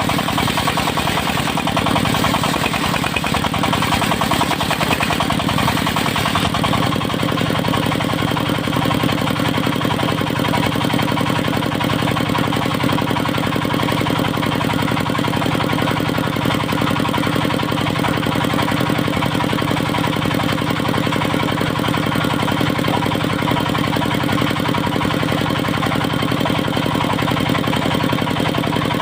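Engine of a portable circular sawmill running steadily. For the first six seconds or so there is a harsher, hissier edge on top, which then drops away to a steadier hum.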